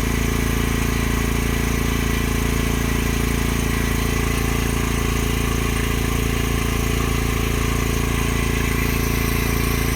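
A water pump's motor running steadily, with an unchanging hum and an even hiss above it.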